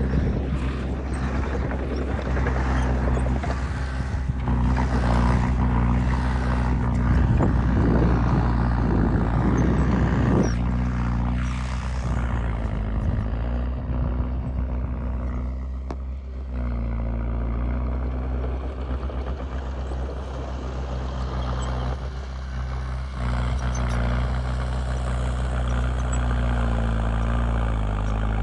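Heavy diesel engine of earthmoving machinery running under load, with loud rough clatter and crunching for about the first ten seconds. The clatter drops away about ten seconds in, leaving the engine running steadily.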